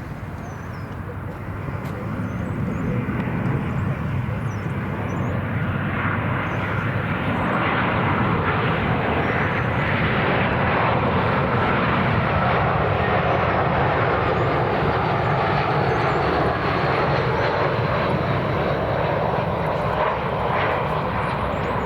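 Jet airliner's engines running as the plane passes, a rushing roar that builds over the first several seconds and then holds loud.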